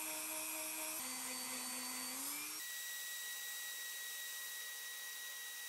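A small electric motor, like a power tool, whirring while its speed steps up and down. About two and a half seconds in it gives way suddenly to a steady hiss with a thin high whine.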